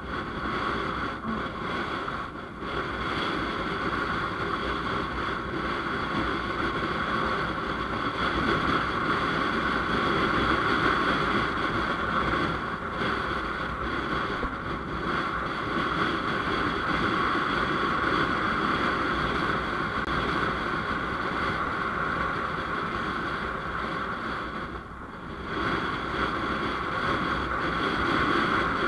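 Steady wind and road noise of a moving motorcycle, with its engine running underneath. The noise eases briefly about 25 seconds in.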